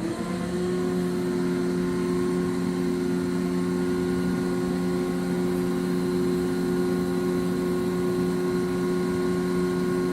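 Ship's davit winch starting up with a brief rising whine, then running at a steady hum as it hoists a tender boat.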